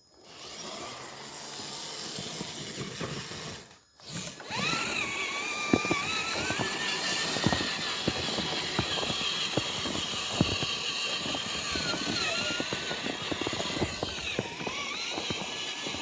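Electric motor and drivetrain whine of radio-controlled crawler trucks, its pitch rising and falling with the throttle, over scattered clicks. The sound drops out briefly at the start and again about four seconds in.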